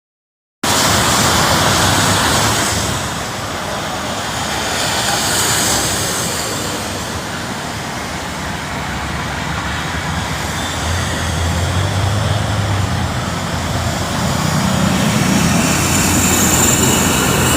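Steady rushing noise of road traffic, with a vehicle engine's low hum coming up in the middle and again near the end.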